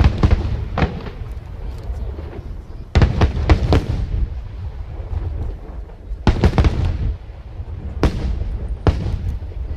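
Aerial firework shells bursting in a display: clusters of sharp bangs with a rumbling echo between them, coming in groups near the start, about three seconds in, about six seconds in, and again near the end.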